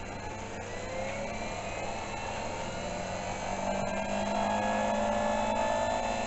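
Milling machine spindle motor running up to speed, its whine rising slowly in pitch and growing louder over a steady hum.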